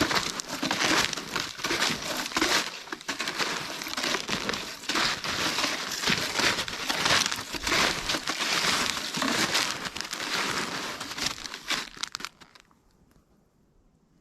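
Snowshoes crunching and packing down fresh snow with each step, a dense crinkling crunch that stops suddenly about twelve seconds in.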